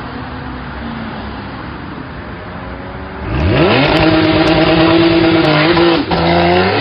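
A car engine running, then revving hard about three seconds in: the pitch climbs quickly and holds high under full acceleration, breaks off briefly for a gear change about six seconds in, and climbs again.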